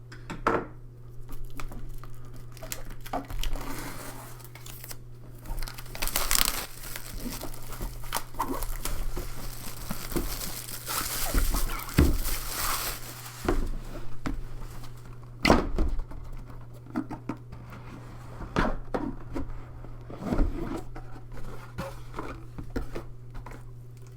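Plastic shrink wrap crinkling and tearing as a board game box is opened, with scattered knocks and thuds of the cardboard box and lid being handled. The crinkling is densest in the middle.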